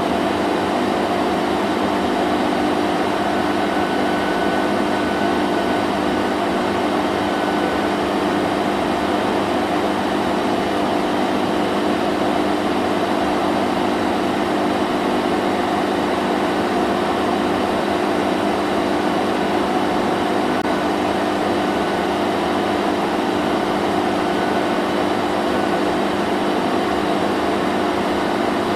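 Vacuum cleaner running steadily: an even rushing air noise with a constant motor hum beneath it that never changes in pitch or loudness.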